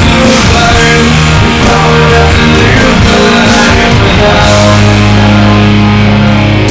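Rock music, an instrumental passage without singing: electric guitars over drums, settling into a long held low chord past the middle.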